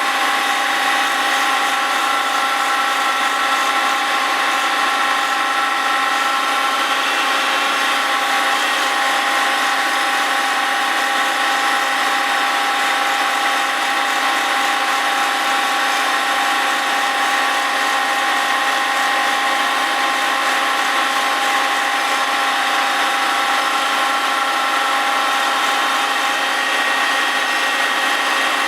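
Grinding of a Willys Jeep flywheel's friction face on a Cincinnati milling machine, the flywheel turning on a rotary table: a steady, even machine whine with several held tones over a grinding hiss.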